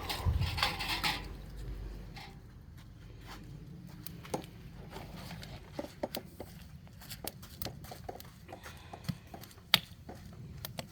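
Oak and pine firewood burning, crackling with scattered sharp pops, the loudest pop near the end. A louder rustling noise fills the first second or so.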